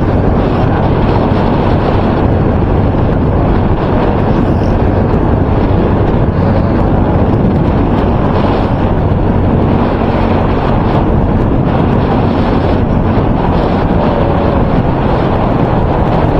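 Loud, steady wind buffeting a microphone that is wrapped in electrical tape; the tape does not stop the wind noise. A faint steady hum runs underneath.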